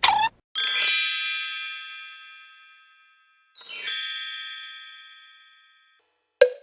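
Comedy sound-effect clips: a quick falling whistle, then two bright metallic bell-like chimes, each struck once and ringing out as it fades. A short sharp knock comes near the end.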